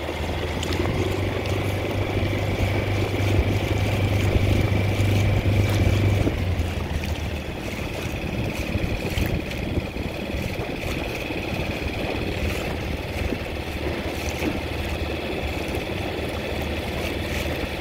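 Suzuki 6 hp outboard motor running steadily with a low hum and a thin whine, easing to a lower, quieter note about six seconds in.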